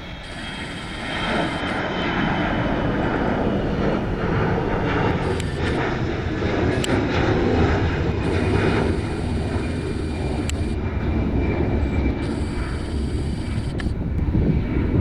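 Airliner engines running loud as an aircraft passes close by. The noise swells about a second in and then stays loud and steady.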